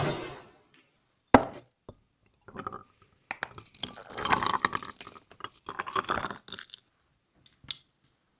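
Dry cat food crunching in irregular bouts. There is a sharp knock about a second and a half in and a short click near the end.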